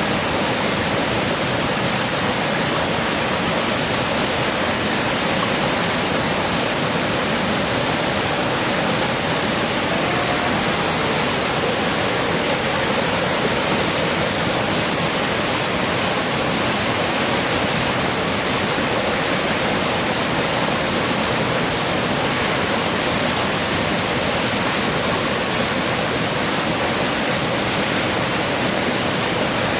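Heavy rain falling steadily, an even rushing hiss that does not let up.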